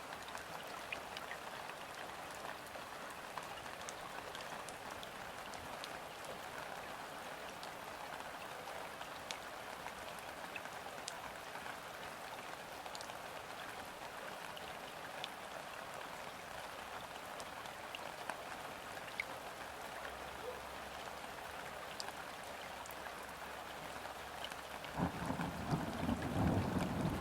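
Steady gentle rain falling on river water, a soft even patter with scattered individual drops. A louder low rumble of distant thunder swells in near the end.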